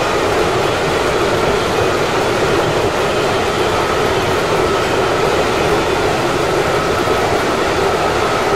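Keikyu electric commuter train running, heard from the cab at the front: a steady rumble and hiss of wheels on the rails, with a faint high whine that comes and goes from about halfway.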